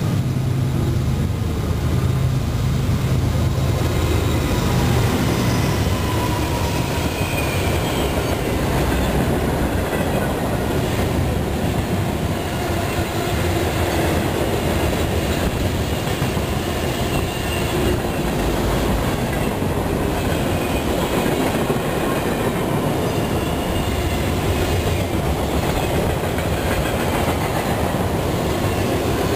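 Freight train rolling past: steady rumble of wheels on the rails with faint high wheel squeal, and a low engine drone in the first few seconds.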